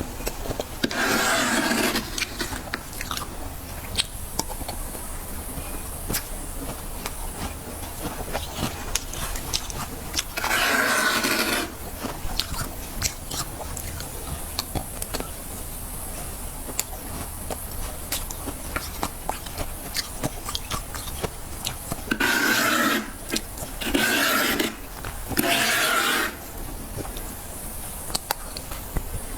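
Frost being scraped off the inside wall of a freezer in five rasping strokes of about a second each: one near the start, one about halfway through, and three close together near the end. Between the strokes comes crisp crunching of frost being chewed.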